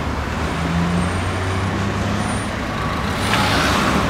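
BMW M2 turbocharged straight-six engine running at low revs as the car pulls across a junction, a low steady drone with a short rush of hissy noise about three seconds in.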